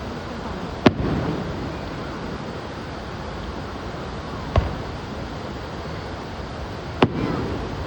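Fireworks shells bursting: three sharp bangs, about a second in, past four and a half seconds and near seven seconds, the first and last trailing off in a brief rumbling echo, over a steady rushing background noise.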